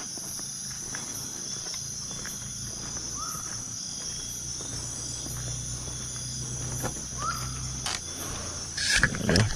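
Steady high-pitched chirring of insects outdoors, with two short rising chirps about three and seven seconds in. Near the end there is a loud scuffing noise.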